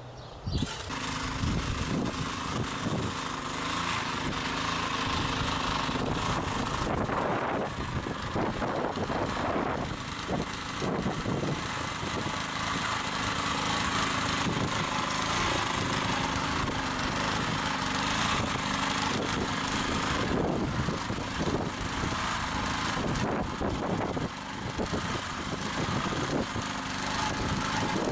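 Walk-behind tractor's small petrol engine running steadily, setting in suddenly at the start.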